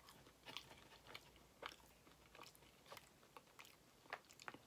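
Faint chewing: a person eating with soft mouth clicks, roughly two a second.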